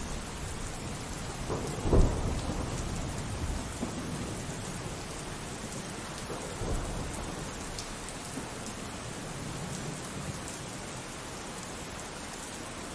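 Steady rain falling through a thunderstorm, with thunder rumbling. A loud thunderclap comes about two seconds in, and softer rumbles follow a couple of times after.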